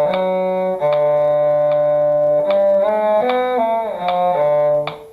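Violin and cello playing a slow duet together in long held notes, the violin line above the cello line, over a metronome clicking about every 0.8 seconds. The playing stops near the end and the metronome clicks on.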